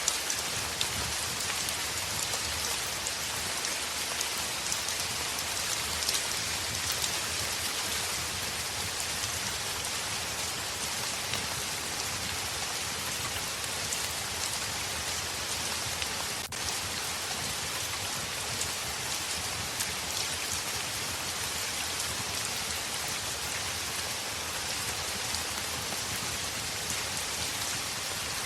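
Steady heavy rain falling on a window, a dense, even patter of drops, with a momentary dip in the sound about sixteen seconds in.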